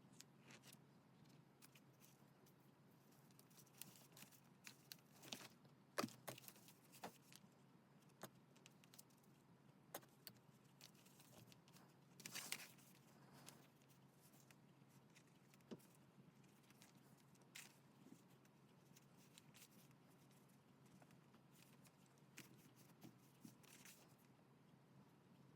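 Faint handling of paper and stationery: scattered light clicks and taps, with a short paper rustle about halfway through.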